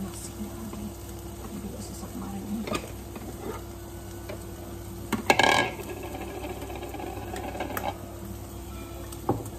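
Rice and vegetables sizzling in a wok over a gas burner, over a steady hum. A few light kitchen knocks and clinks come through, the loudest a short clatter about five and a half seconds in.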